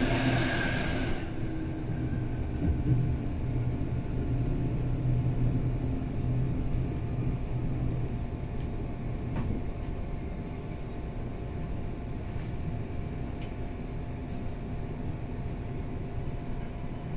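Bernina Express passenger carriage heard from inside while running, a steady low rumble with a few faint clicks.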